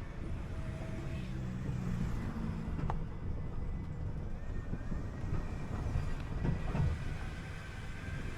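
City bus heard from inside while it drives: a low engine drone with road noise and the rattling and knocking of the body. There is a sharp click about three seconds in.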